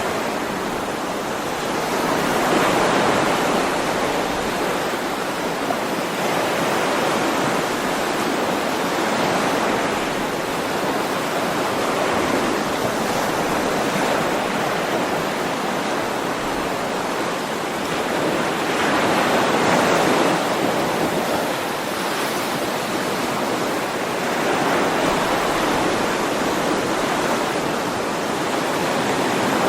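Ocean waves washing on a shore: a steady rush of surf that swells and eases slowly, with one stronger surge near the start and another about two-thirds of the way in.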